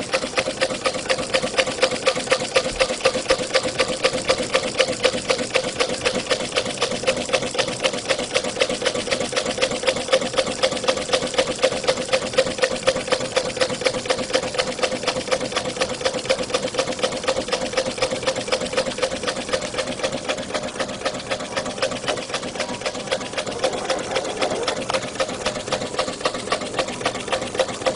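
Small homemade Stirling engine running, its moving parts clattering in a rapid, even rhythm over a steady hum.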